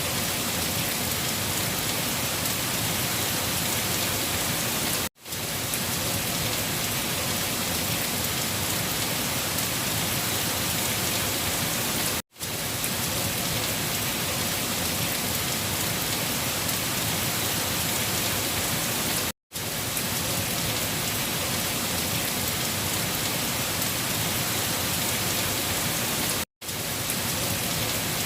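Steady heavy rain, an even hiss with most of its energy in the upper range. It cuts out for a moment about every seven seconds, four times, then fades straight back in, as a looped recording does.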